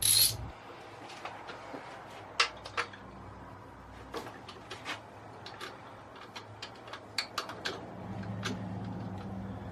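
Small metallic clicks and taps at irregular intervals as hardware and tools are handled while a light bar bracket is bolted on by hand. A low steady hum comes in near the end.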